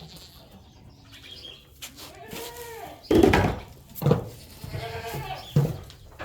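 Goats bleating: a run of several calls that starts about two seconds in, the loudest about three seconds in.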